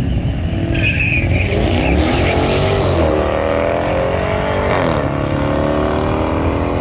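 A car's engine accelerating hard down a drag strip, revving up through its gears with a drop in pitch at each shift, about three seconds and five seconds in.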